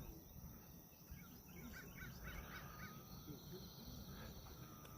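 Faint whine of a radio-controlled Cessna 182 model's electric motor, its pitch sliding slowly down and then back up as the plane passes. A few short bird chirps come about two seconds in, and a faint insect buzz follows.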